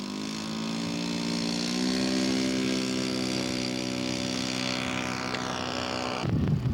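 Radio-control model airplane engine running steadily, its pitch stepping up slightly about two seconds in; the engine sound cuts off suddenly near the end.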